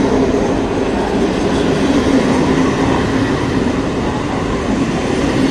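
ONCF passenger coaches rolling past close by on the rails, a loud, steady rumble of steel wheels on track.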